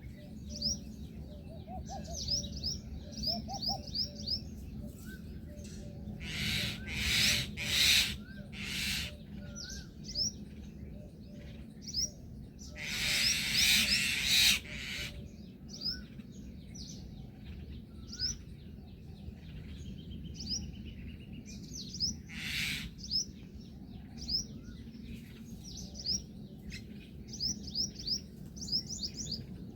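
Birds calling with many short, high chirps repeated throughout. Loud, harsh, noisy bursts break in three times: around seven seconds, from about thirteen to fifteen seconds, and once more near twenty-two seconds.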